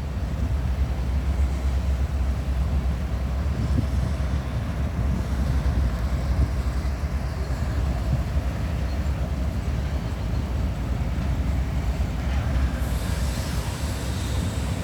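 Diesel freight locomotives running with a steady, deep rumble. Near the end a hiss comes up over it.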